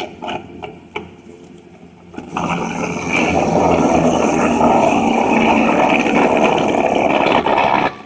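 Disc wood chipper running, with a sudden loud grinding of wood being chipped from about two seconds in, over a steady machine hum; the grinding eases off near the end.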